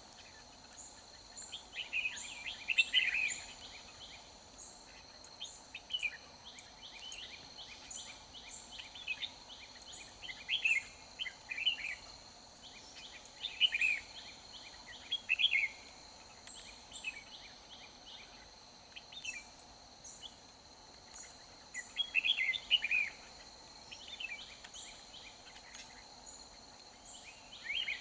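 Red-whiskered bulbuls singing short, warbling phrases every few seconds, over a steady high insect drone.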